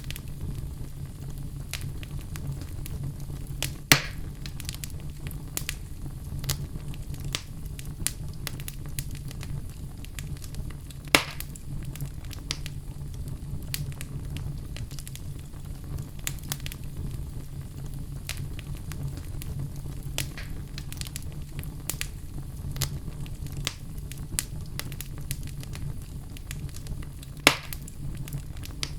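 Wood fire in a fireplace crackling steadily over a low rumble, with dense small ticks and pops. Three louder snaps stand out: one about four seconds in, one about eleven seconds in, and one near the end.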